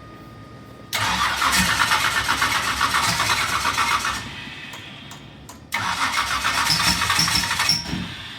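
Starter cranking a cold 548 big-block Chevy V8 on E85 in two attempts, about three seconds and then about two seconds, with a short pause between.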